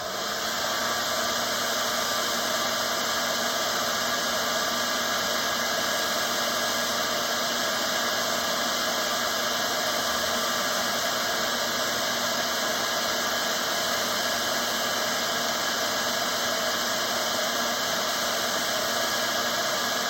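Hair dryer switching on and running steadily, a rush of air with a steady whine, drying freshly applied paint.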